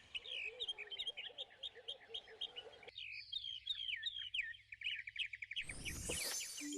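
Birdsong: several birds chirping and twittering in rapid high notes, with a lower repeated call underneath that cuts off abruptly about three seconds in. A rising whoosh near the end.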